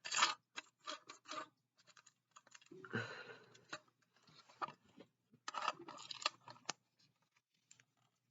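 Plastic packaging crinkling and clicking in short, scattered bursts as a boxed model car is handled and worked free of its packing, with busier rustling about three seconds in and again near the middle.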